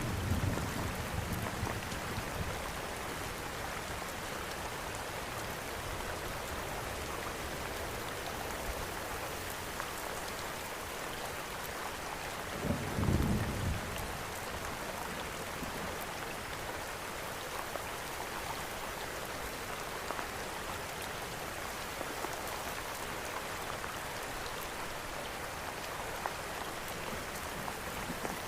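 Steady rain, with a low rumble of thunder fading out at the start and another short rumble about halfway through. Scattered faint crackles from a fireplace fire sound over the rain.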